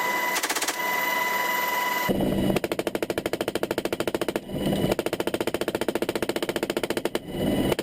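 M240 machine gun firing long rapid bursts, about a dozen rounds a second, breaking off briefly about four and a half and seven seconds in.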